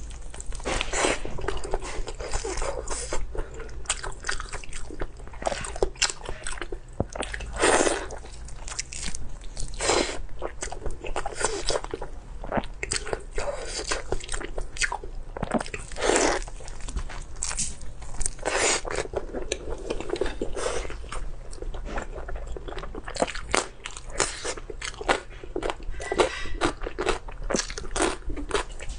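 Close-miked mouth sounds of eating: steady wet chewing and smacking with many small clicks, broken by a few longer, louder sounds about 8, 10 and 16 seconds in.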